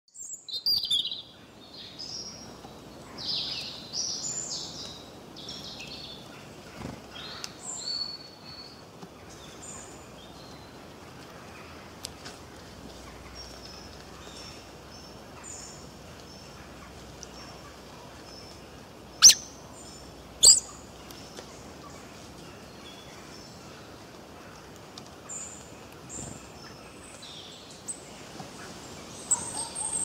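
Brown rock chat calling: bursts of short, high chirping notes in the first nine seconds and again near the end, over a steady background hiss. Midway come two sharp clicks a little over a second apart, the loudest sounds.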